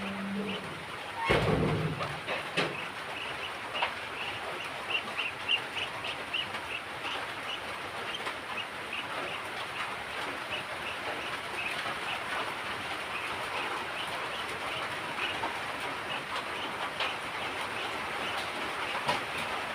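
Ducks feeding: a steady wet clatter of many bills dabbling and picking at food, with short ticks repeating several times a second. There is a brief louder low sound about a second in.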